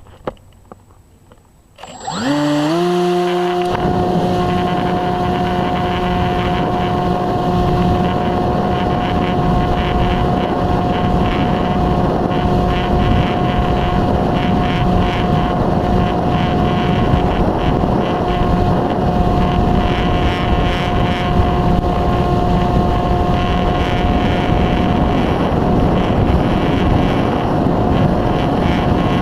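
Electric pusher motor and propeller of a Multiplex EasyStar 2 RC foam plane spinning up about two seconds in, then running at a steady high pitch, with wind noise rushing over the microphone. Before the motor starts there are only a few faint handling clicks.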